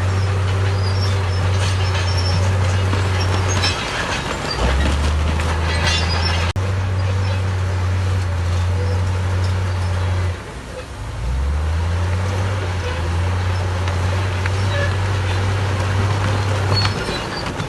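Heavy diesel earthmoving machinery running, the engine's low hum shifting pitch several times as it works, easing off briefly about ten seconds in and then picking up again.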